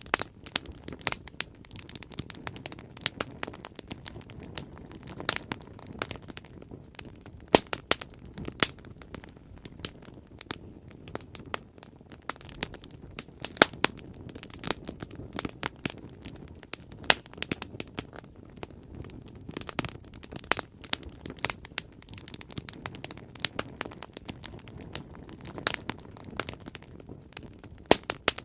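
Bonfire crackling: irregular sharp pops and snaps, several a second, over a low steady rush of the flames.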